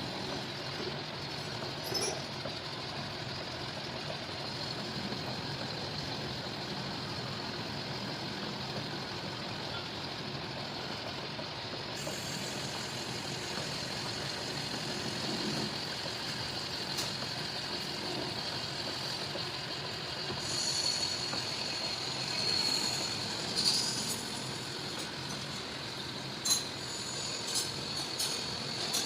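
A machine tool running steadily during machining, with a faint high whine that comes in about two-thirds of the way through and a few sharp clicks near the end.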